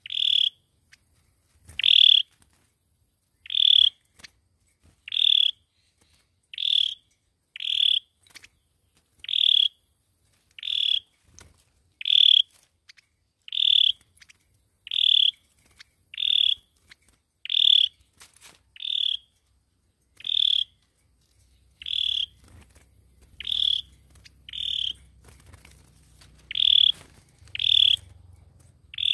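A sâu dừa songbird giving a short, high call over and over, about once a second. A faint low rumble comes in under the calls about two-thirds of the way through.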